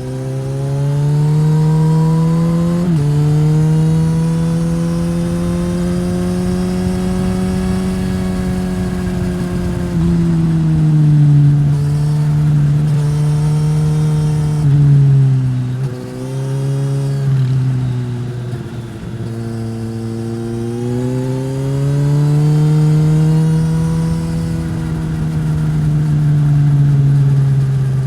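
Suzuki GSX-S1000's inline-four through a Yoshimura R-11 slip-on exhaust, the revs climbing and falling with the throttle and stepping abruptly at several gear changes.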